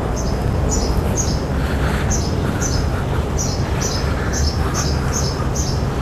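A small bird chirping over and over, about two short high chirps a second, each falling slightly in pitch, over a steady low rumble.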